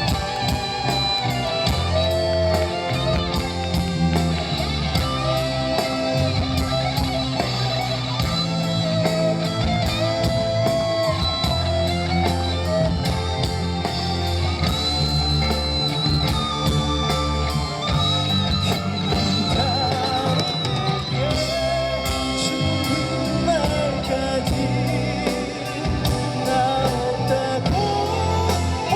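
A live rock band plays an instrumental passage of a rock ballad: a lead guitar melody with bending notes over drums and bass guitar.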